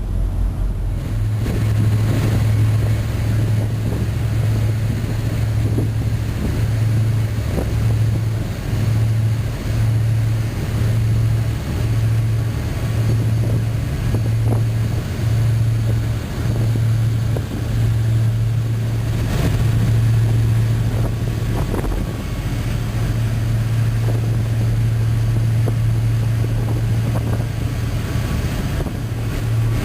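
Low, steady drone of a high-speed passenger boat's engines, with wind and water noise over it. The hum swells and fades about once a second, then holds steady for the last several seconds.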